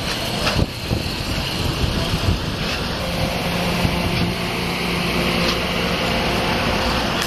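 Passenger cars of a train rolling slowly past close by: a steady rumble of wheels on rail with a few sharp clicks. A faint, low, steady hum joins about three seconds in.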